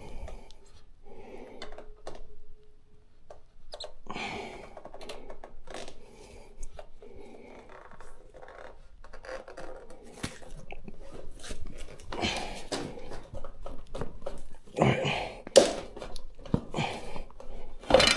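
Motorcycle tyre being levered off its wheel rim with steel tyre levers: irregular scraping and clicking of the rubber bead and levers against the rim, with a person's hard breathing from the effort.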